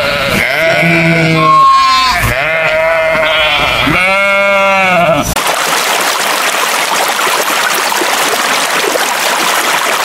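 Sheep bleating: about four wavering calls one after another. About five seconds in they give way to a steady hiss.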